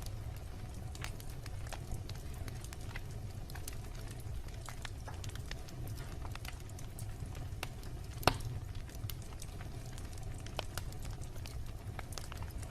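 Wood bonfire crackling: scattered sharp pops and snaps over a steady low rumble, with one much louder pop about two-thirds of the way through.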